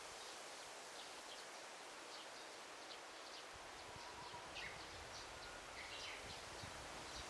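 Forest ambience: a faint, steady rustling hiss with many short, high bird chirps scattered through it, busiest in the second half.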